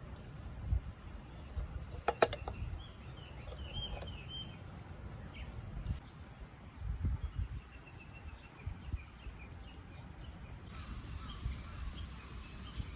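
Outdoor campsite ambience: faint, repeated high chirping calls from birds or insects over a low rumble and soft thumps, with a few sharp clicks about two seconds in.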